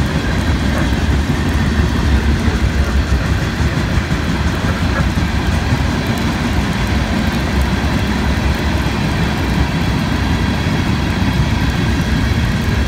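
Freight cars rolling past on the rails: a loud, steady rumble of wheels on track that does not let up.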